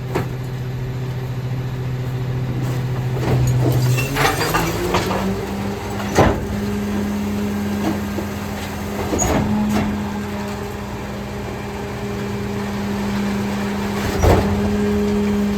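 Autocar ACX rear-loader garbage truck's diesel engine running, stepping up from idle to a steady higher speed about four seconds in to drive the Pac-Tech packer hydraulics, with several sharp metallic bangs from the body and bins.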